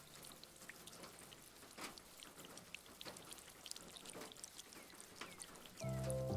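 Faint rain ambience: a soft patter with scattered small drips and ticks. Piano music comes back in near the end.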